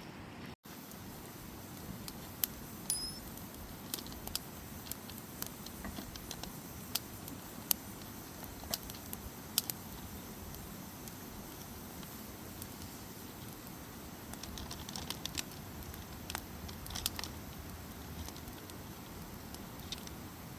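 Campfire burning: irregular sharp pops and snaps of wood over a steady low hiss, with a quicker run of pops about fifteen seconds in.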